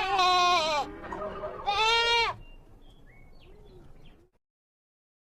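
A bleating animal calls twice, each a loud, quavering, held cry lasting about a second or less.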